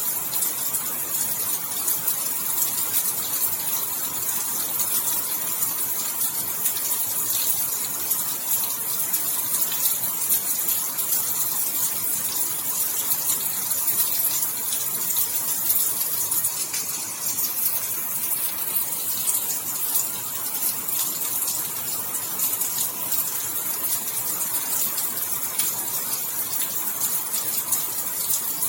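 Steady heavy rain falling, an even hiss thick with fine patter of drops.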